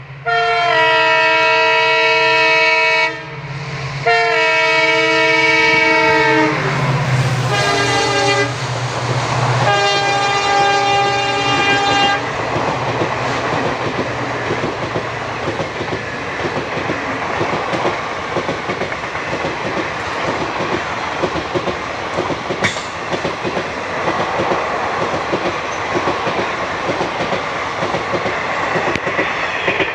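WDP-4D diesel locomotive hauling an express at speed, sounding four long horn blasts as it approaches and passes; the horn drops in pitch as the locomotive goes by. It is followed by the steady clickety-clack of the coaches' wheels rushing past.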